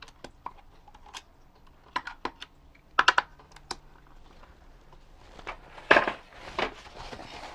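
Scattered small clicks and taps of plastic parts and small hardware being handled while a toy robot's gearbox is opened for disassembly. The loudest is a quick cluster about three seconds in, and there is a busier, rattling stretch near the end.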